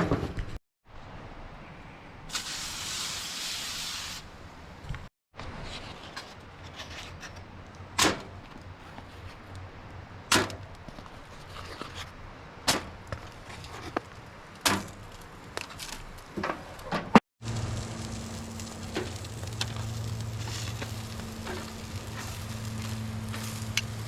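Camp breakfast being cooked in a pot without a skillet: a brief hiss, then a run of sharp clicks and knocks of a utensil on cookware, then a steady low hum.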